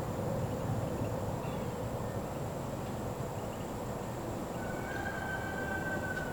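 Wind blowing through woods, with a steady high insect drone and a few faint bird chirps. A little before the end, a long, level animal call starts and holds for about two seconds.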